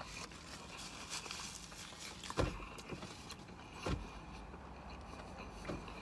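A person chewing a mouthful of crispy panko-breaded fish sandwich with the mouth closed, with three short crunching clicks a second and a half or so apart, the first the loudest.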